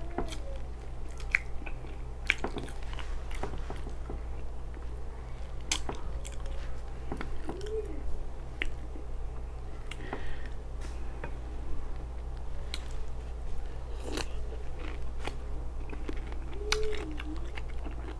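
Close-miked chewing and biting of food, with many irregular sharp clicks from the mouth and teeth over a steady low hum.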